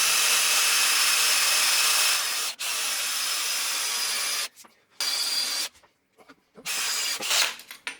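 Electric drill running at high speed, boring a hole through a guide plug into a shop-made surface grinder table. It drills steadily for about four and a half seconds, then in short bursts with pauses in between.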